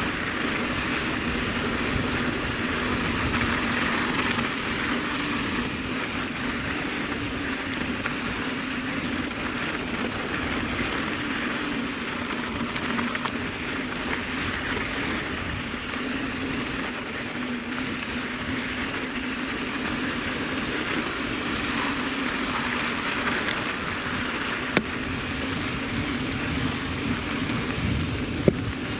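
Mountain bike riding on a dirt trail: steady wind noise on the microphone over the rumble of the tyres, with two sharp clicks near the end.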